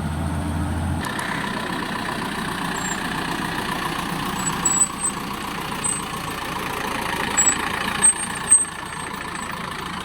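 A heavy vehicle engine running steadily. A deep low hum drops out about a second in, and brief high chirps and a few short, louder sounds come later.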